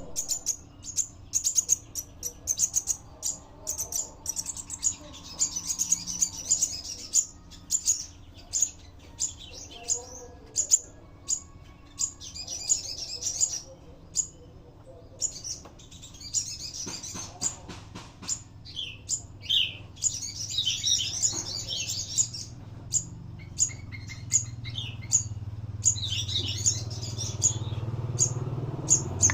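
A spiderhunter (sogok ontong) chirping, with rapid high-pitched calls in repeated bursts and a few short pauses. A low hum grows louder near the end.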